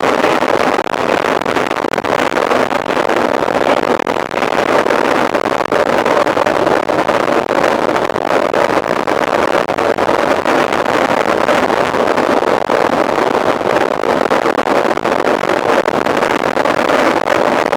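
Steady rushing of wind across the microphone of a camera on a mountain bike being ridden, with no pitch or rhythm to it.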